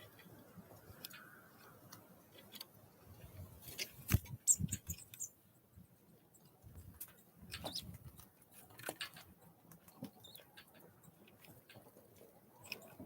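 Small wild birds at a feeder, their bills tapping and pecking at seed and wood in irregular clicks, busiest about four seconds in, with a brief high note.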